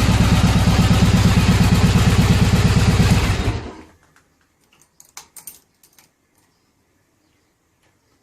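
Yamaha Virago XV1100's air-cooled V-twin, fitted with Jardine straight pipes, running steadily with an even low throb, then stopping about three and a half seconds in. A few light metallic clicks and jingles follow.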